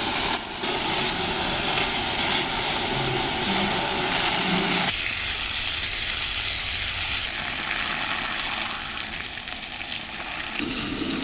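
A steady hiss, loud for about five seconds and then dropping to a softer hiss that carries on.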